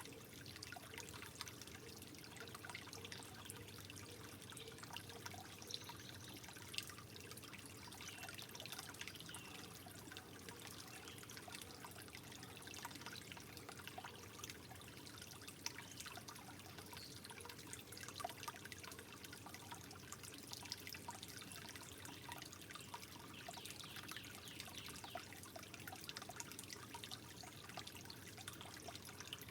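Gentle trickling water, running steadily and softly, with many small drips and splashes flicking through it.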